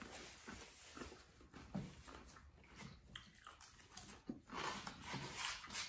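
Faint mouth-chewing and crunching of corn tostada chips with cheese dip, in scattered small crackles and clicks, growing a little louder and busier near the end.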